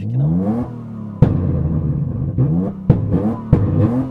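Nissan Skyline ER34 engine revving hard in quick rising sweeps. Three sharp cracks break the revs, about a second in, near three seconds and just after.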